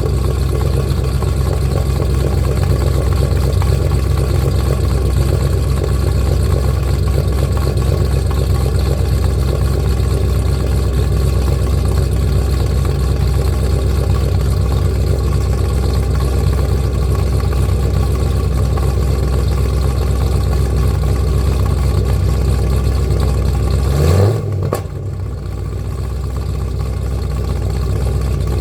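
Cadillac CTS-V V8 idling steadily after a cold start, its exhaust running through small off-the-shelf Flowmaster mufflers. About 24 seconds in there is a short rev that rises in pitch, and then the engine sound drops quieter.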